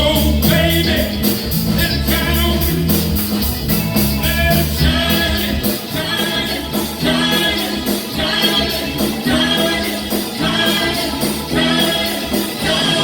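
Live band playing a rock song with a steady beat.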